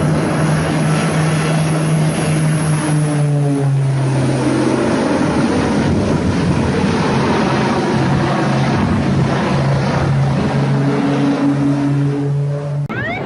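Propeller aircraft engine running, a loud steady drone under a rushing noise. The pitch drops about four seconds in and rises again near the end, then the sound cuts off suddenly.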